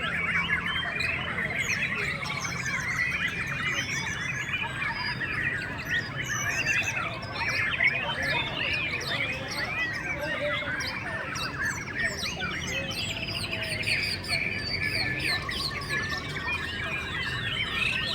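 Many caged white-rumped shamas singing at once in a contest: a dense, overlapping chorus of quick whistles and chirps that never pauses.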